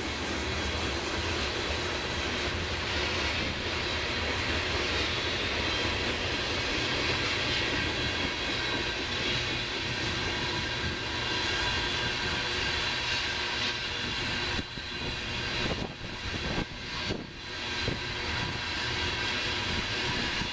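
Freight train cars rolling past, a steady roar of steel wheels on rail. The noise dips and breaks up briefly about three quarters of the way through.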